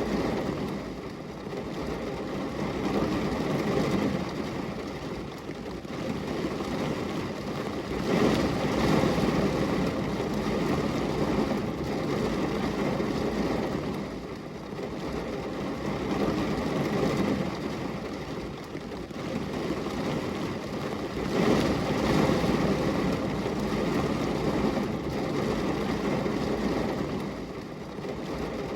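Steady rush of heavy rain on window glass, swelling and easing every several seconds.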